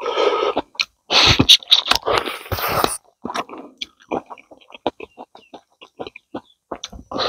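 A man eating roasted rabbit meat with rice by hand, mukbang style. Loud chewing bursts fill the first three seconds, followed by a quick run of short mouth smacks.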